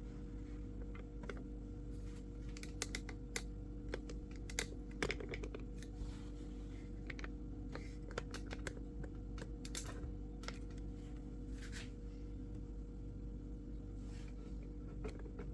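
Faint, irregular clicks and taps of objects being handled during a refrigerator clean, busiest a few seconds in, over a steady low hum.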